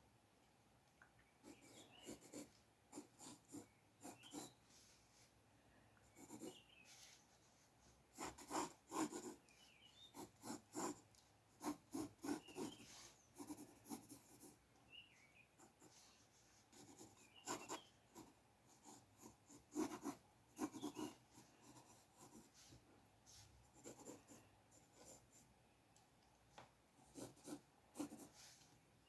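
Faint scratching of a drawing tool on paper: irregular short strokes in quick clusters with pauses between, as lines are sketched.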